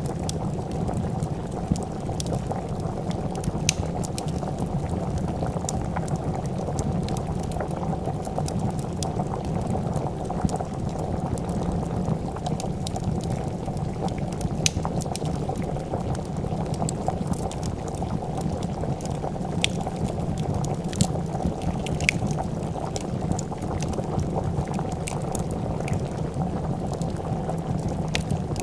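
A pot of soup bubbling at a steady rolling boil, with the sharp, irregular snaps and crackles of a wood fire.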